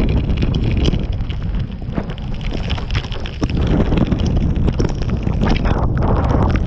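Strong wind blowing across the microphone, a heavy low buffeting with many short crackles through it.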